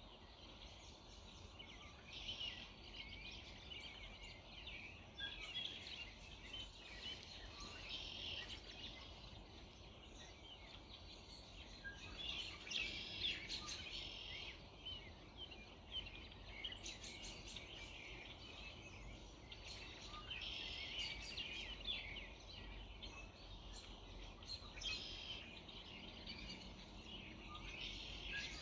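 Early-morning chorus of several songbirds, with overlapping chirps and trills coming in bouts every few seconds over a faint steady background rumble.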